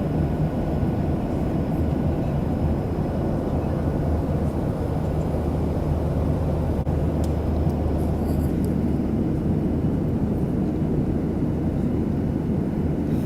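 Steady rumble of an airliner cabin, with engine and airflow noise holding an even, low drone.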